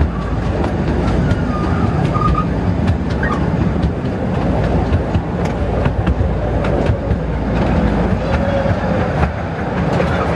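Small theme-park ride train running, heard from inside its carriage: a steady rumble with the clatter of wheels on the track.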